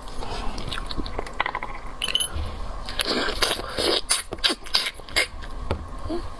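Close-up scraping and irregular clicking of a shrimp's shell being pulled apart and peeled by hand.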